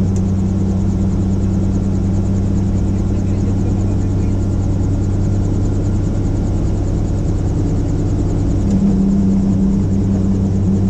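Helicopter running with a loud, steady drone from its rotors and engine.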